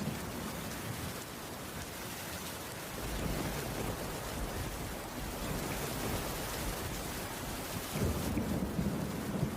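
Heavy rain falling steadily, with low rolling rumbles of distant thunder that swell about three seconds in and again near the end.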